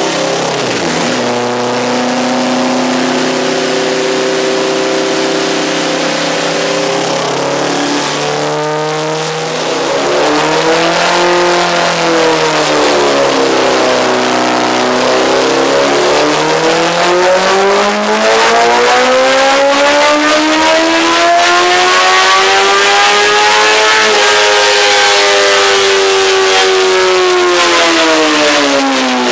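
2008 Honda CBR1000RR inline-four engine running under load on a dyno through a Racetune exhaust while its Power Commander fuel map is tuned. Revs are held fairly steady for several seconds, then dip and rise twice, climb slowly to a peak about three quarters through, and fall away near the end.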